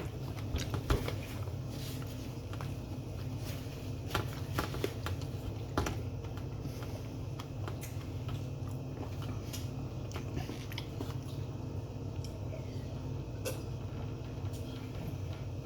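A person eating close to the microphone: chewing, with a few sharp clicks of cutlery or dishes in the first six seconds, over a steady low hum.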